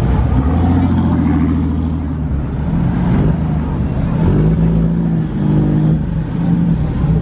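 Vehicle engine running loudly, its pitch shifting up and down a few times as it is revved, with voices in the background.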